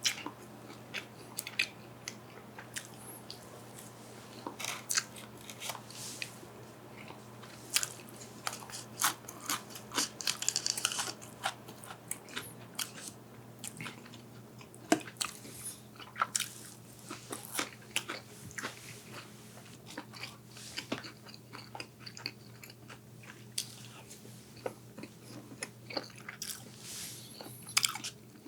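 Close-miked eating: crunchy bites and chewing, a dense run of sharp crackling clicks throughout.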